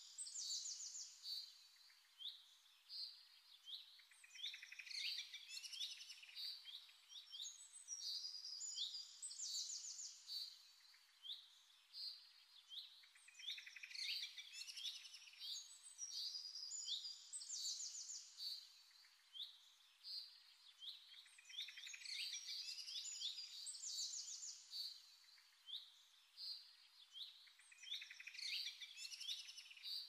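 Songbirds chirping and singing: many quick high chirps and trills, in busy clusters that come back every eight seconds or so.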